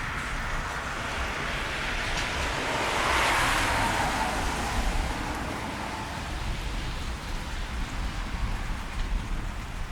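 A car passing on a wet street: tyre hiss swells to a peak about three seconds in, then fades, over steady rain.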